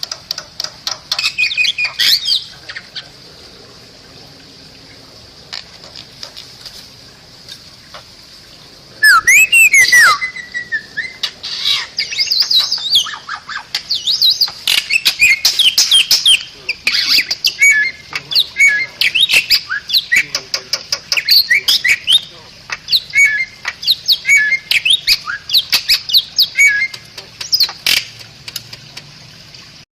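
Bali myna singing: a rapid string of sharp whistles, chirps and harsh squawks. The song pauses for a few seconds early on, then resumes with a loud burst of rising whistles and keeps going in dense phrases.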